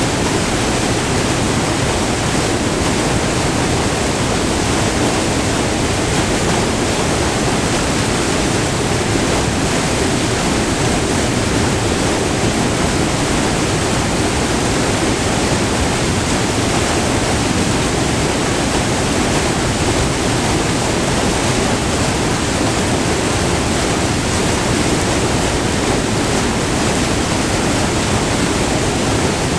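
Multi-tiered river waterfall recorded up close: loud, steady white-water rush with no let-up.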